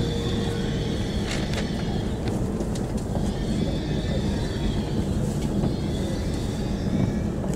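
A Tohoku Shinkansen train running, heard from inside the passenger car as a steady low rumble, with a faint high whine that wavers up and down.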